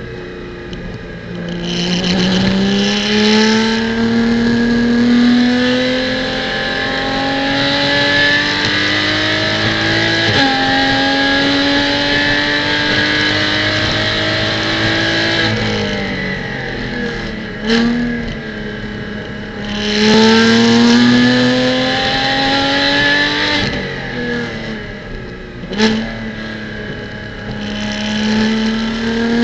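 Porsche Cayman GT4 Clubsport's flat-six engine heard onboard while lapping a wet track: long pulls rising in pitch under acceleration, a sudden step in pitch about ten seconds in, and lifts off the throttle before rising again. Two short sharp cracks come about two-thirds of the way through and again near the end, over a steady hiss.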